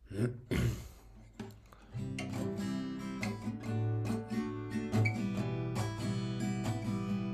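Acoustic guitar playing a song's intro: a couple of quick strums in the first second, then a steady pattern of ringing notes from about two seconds in.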